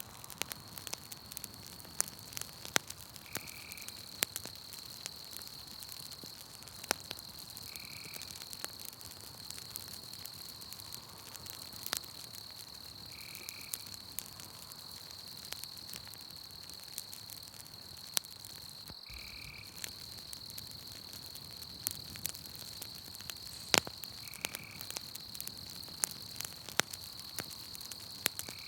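Campfire crackling, with scattered sharp pops of burning wood. Behind it run a steady high insect trill and a short, higher call repeated about every five seconds.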